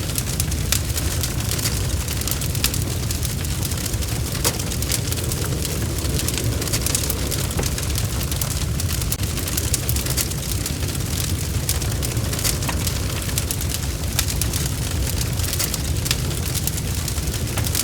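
Wood fire burning in a fireplace: a steady low rumble with frequent short, sharp crackles and pops scattered throughout.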